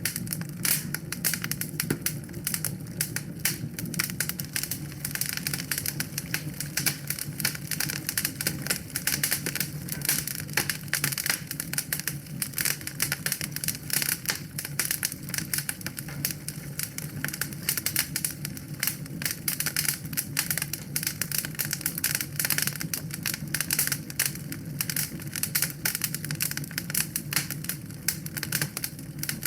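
Wood fire in a fireplace crackling, with a dense stream of small sharp pops and snaps over a steady low rumble of the flames.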